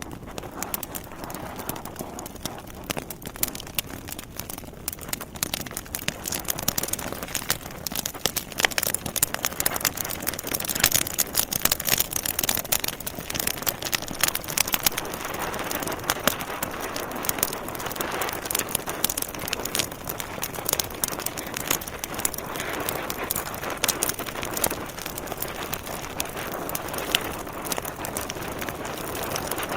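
Logs burning in a fireplace, crackling and popping: many sharp snaps over a steady rush of flame. The pops grow thicker and louder about a quarter of the way in.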